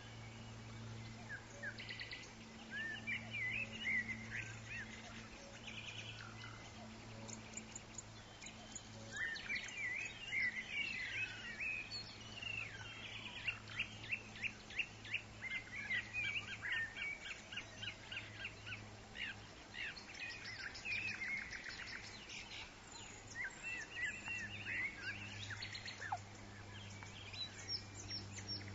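Forest birds calling: many short chirps and quick, fast-repeating trills, busiest in the middle, over a steady low hum and a faint background hiss.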